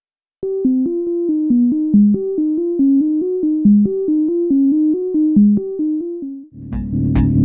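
Moog Werkstatt analog synthesizer playing a sequenced line of short notes, about four a second, in a repeating pattern. Near the end a drum beat comes in under a thicker, sustained synth tone.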